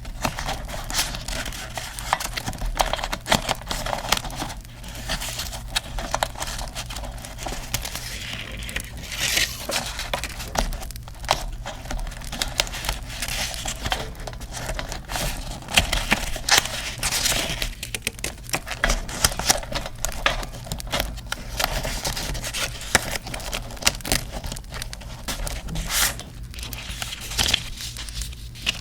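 Paper crinkling and rustling as it is handled, with scattered small tears and crisp clicks, over a steady background of crackling campfire sound.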